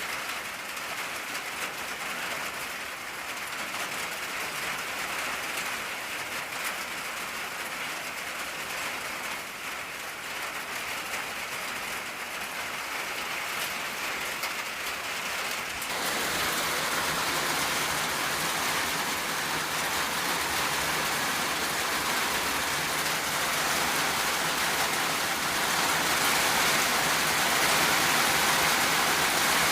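Steady rain drumming on an old tin roof, a dense even patter that turns abruptly louder and heavier about halfway through.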